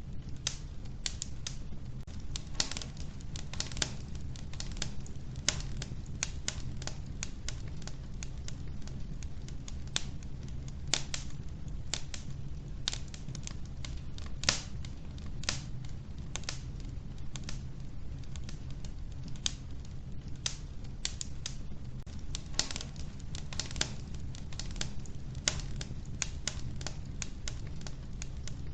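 Wood fire crackling in a wood-burning stove: irregular sharp snaps and pops, sometimes several in quick succession, over a steady low rumble.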